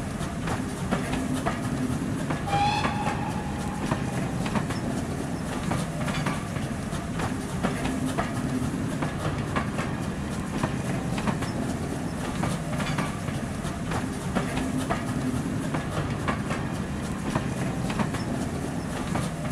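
Train carriages running past, wheels clicking rhythmically over rail joints over a steady rumble. A short whistle sounds about two and a half seconds in.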